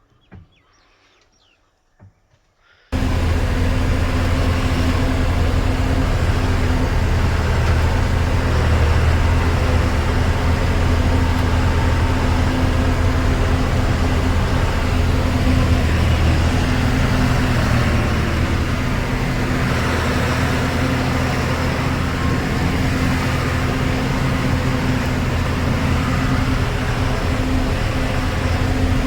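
Tractor diesel engine running steadily at a constant speed, starting abruptly about three seconds in after a few faint clicks.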